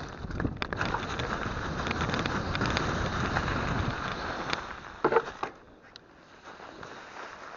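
Mountain bike riding down a snowy trail: a rushing noise of tyres and wind with many small rattling clicks for about five seconds, a short sharp sound about five seconds in, then much quieter.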